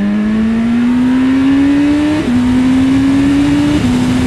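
BMW S1000RR inline-four engine pulling hard under full acceleration, its note climbing steadily. It drops sharply twice, about two seconds in and near the end, as it shifts up a gear, and climbs again after each shift. Wind rushing over the rider underneath.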